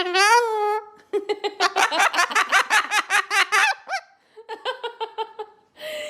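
A parrot mimicking human laughter: a high drawn-out call, then two runs of quick ha-ha-ha notes, about five a second.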